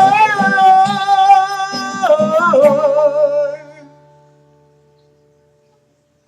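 A man singing a long held note with vibrato over strummed guitar chords. About two seconds in he moves to a second held note, and then voice and guitar fade away, leaving silence for the last couple of seconds.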